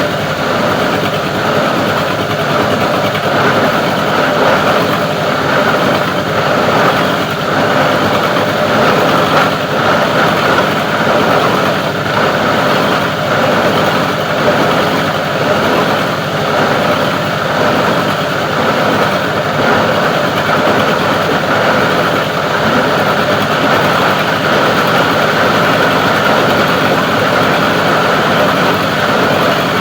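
Plastic recycling grinding machine running steadily, its motor and grinder making a loud, even mechanical noise.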